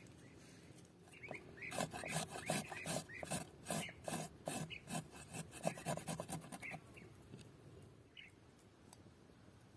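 A run of rhythmic scraping strokes, about two to three a second, for about five seconds starting a second in, then stopping.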